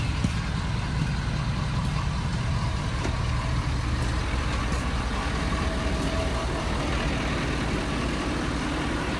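Ford 6.7-litre Power Stroke V8 turbo diesel idling steadily, just brought to life by the remote start.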